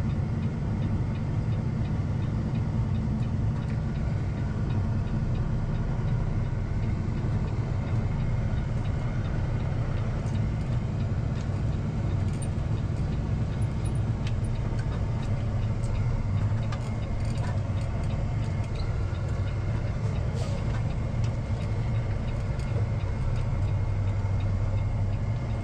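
Cummins ISX diesel engine of a 2007 Peterbilt 379 running steadily at low speed, heard from inside the cab, with a low, even drone.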